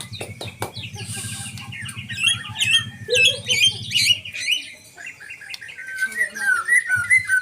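Captive white-rumped shama (murai batu) singing loudly: a rapid, varied stream of whistled, gliding notes. A low steady hum runs underneath and stops about four seconds in.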